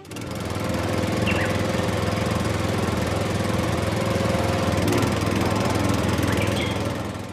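Small motor of a DIY mini tractor running steadily.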